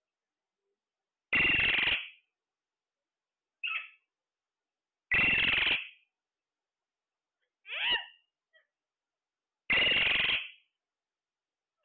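Parrot calling: three loud, harsh squawks about four seconds apart, with two shorter calls falling in pitch between them.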